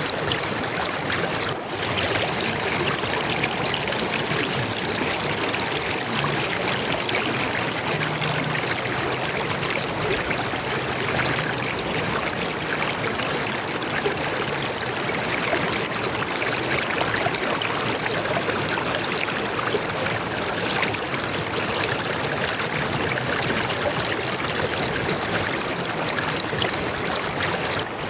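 Water flowing in a stream, a steady, even rush and trickle with a momentary dip about one and a half seconds in.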